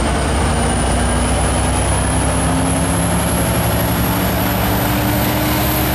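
Coaster commuter train running: a steady low diesel drone, with a thin high whine that climbs slowly and evenly in pitch throughout.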